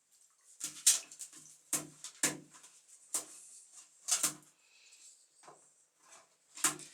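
A greasy pigeon being washed by hand: about eight short, sharp scuffles and splashes at irregular intervals as the bird is scrubbed and shifts about.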